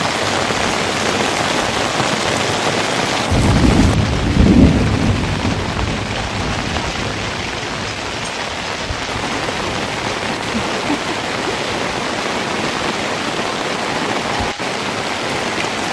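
Heavy rain falling steadily, with a low rumble of thunder about three to five seconds in.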